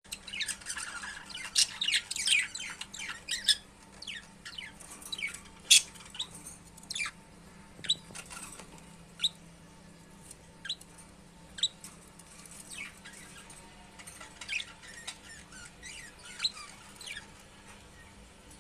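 Budgies chirping in short, sharp calls: a quick flurry in the first few seconds, then scattered single chirps about a second apart, and another flurry near the end.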